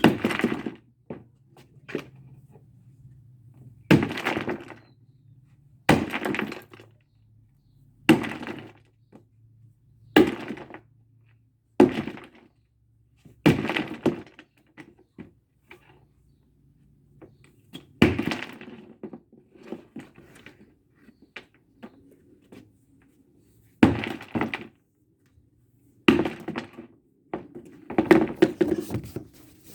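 Repeated hard blows smashing apart a cheap exhaust fan's brittle plastic housing and motor, about a dozen sharp strikes spaced roughly two seconds apart, each with a brief crack of breaking parts. A faint low hum runs underneath between the blows.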